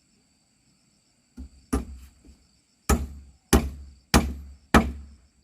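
A hammer striking wood: a light tap about a second and a half in, then a steady run of hard blows, about one every 0.6 seconds, to the end.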